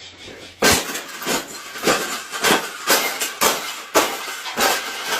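Repeated clanking knocks, about two a second, with a light metallic ring.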